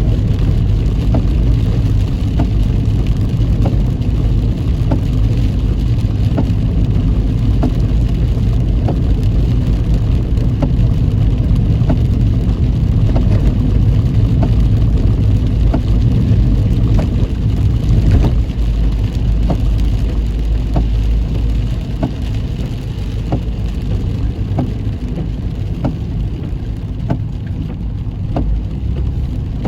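Inside a car driving in heavy rain: a steady low road-and-engine rumble, with rain on the car and light ticks about once a second. The rumble eases a little after about twenty seconds.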